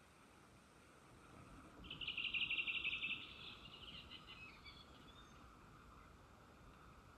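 A small songbird singing a short, rapid trill about two seconds in, trailing off over the next second or so, over faint outdoor background hiss.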